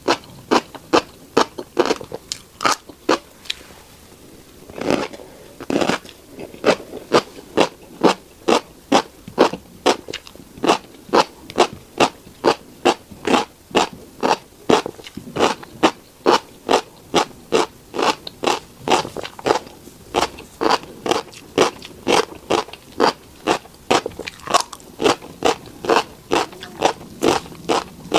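Close-miked crunching as a mouthful of tiny black seeds is chewed, a sharp crunch about two to three times a second. The chewing pauses briefly about four seconds in, with a longer, softer scraping sound just after.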